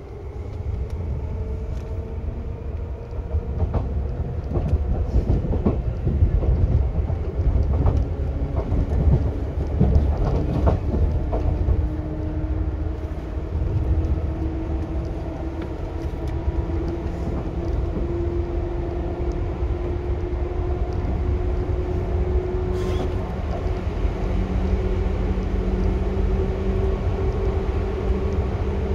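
Seibu 2000 series electric train running, heard from inside the car: a steady low rumble of wheels on rail with clicks from rail joints and points, mostly between about 4 and 11 seconds in. The traction motors' hum slowly rises in pitch over the second half as the train gathers speed.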